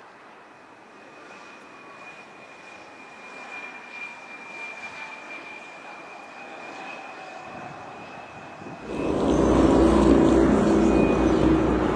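Aircraft engine noise: a steady high whine over a faint rumble that slowly builds, then turns suddenly much louder and fuller about nine seconds in.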